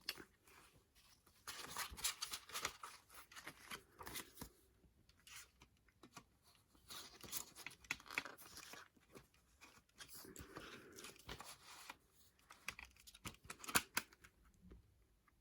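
Packaging being torn and crinkled open by hand in several rustling bursts, with a few sharp clicks and taps near the end.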